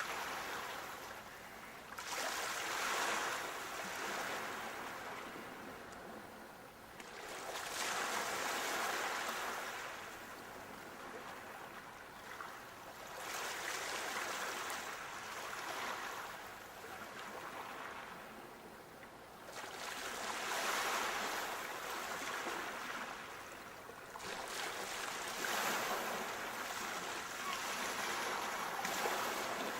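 Sea waves breaking and washing up the shore, about six surges swelling and fading every four to six seconds.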